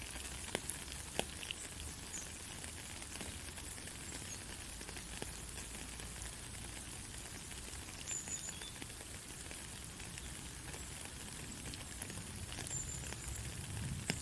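Steady rain falling, an even hiss with scattered drops, a few sharper ones in the first two seconds.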